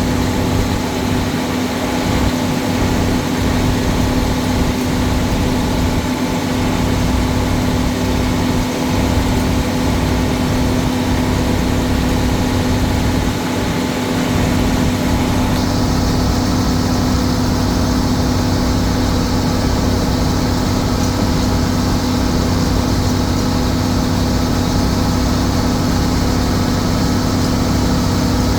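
Old Case tractor engine running steadily at an even speed, with a strong low hum. About halfway through, the higher part of the sound shifts slightly.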